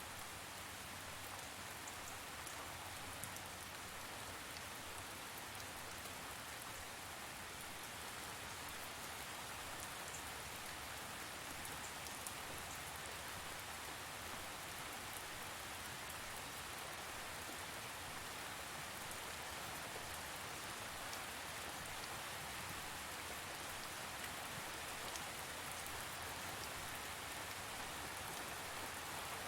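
Steady rain falling, an even hiss scattered with faint drop ticks.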